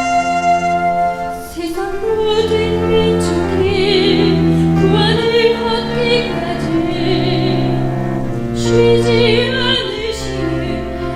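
Singing with a wide vibrato comes in about a second and a half in, over a sustained instrumental accompaniment with held notes.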